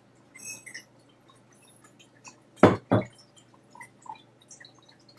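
Faint scattered clicks and taps, with two sharp louder knocks close together a little past halfway.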